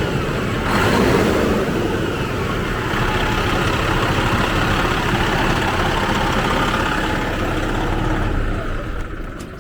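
Semi truck diesel engine idling steadily, then winding down as it is shut off near the end.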